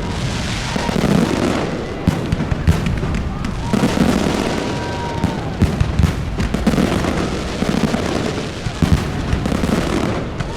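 Fireworks display: a dense run of overlapping bangs and crackling bursts. A thin steady whistle sounds for about two seconds in the middle and drops away at its end.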